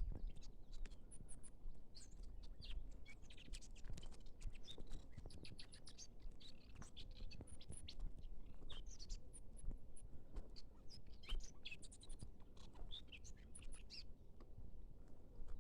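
Small birds chirping and twittering, many short high calls overlapping, which thin out near the end. Scattered light clicks and a low rumble sit underneath.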